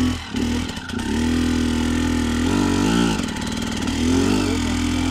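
Enduro motorcycle engine running on the throttle, working under load as the bike is heaved up a steep rocky step. It catches briefly at first, then holds a steady note from about a second in, rising and falling in pitch twice as the throttle is worked.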